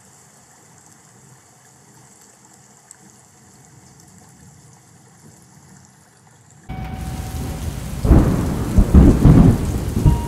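A faint steady hiss, then heavy rain comes in suddenly about two-thirds of the way through, with loud low rumbling swelling over the last two seconds.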